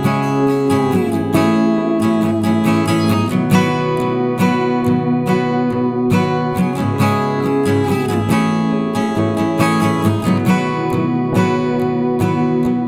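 Background music played on acoustic guitar: steady strummed and picked chords, with a couple of notes sliding in pitch.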